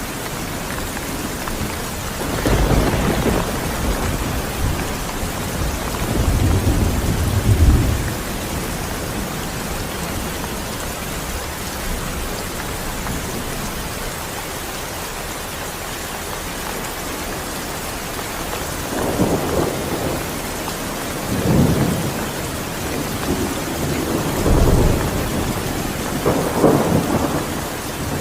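Steady rain with rolls of thunder: one rumble about two seconds in, a stronger one around six to eight seconds, and several more in the last third.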